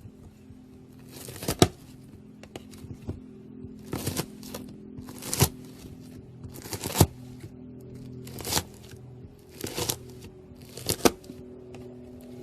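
A knife cutting into crunchy slime, a short crackling crunch about every second and a half, seven cuts in all, over soft background music.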